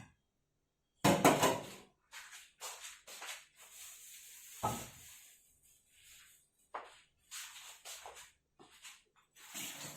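A run of short kitchen handling noises, irregular knocks, clatters and rustles, the loudest about a second in and another sharp knock just before five seconds in.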